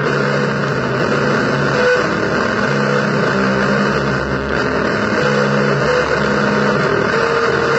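Heavily distorted, noisy blues guitar music: held low notes that stop and start every second or so over a thick wash of hiss and grind.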